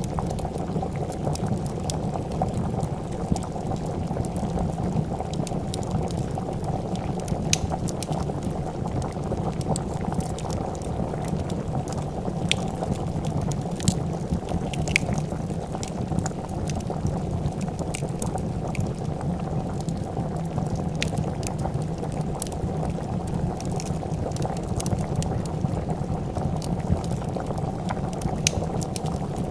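A pot of soup bubbling at a steady boil, with scattered sharp pops and crackles of a wood fire.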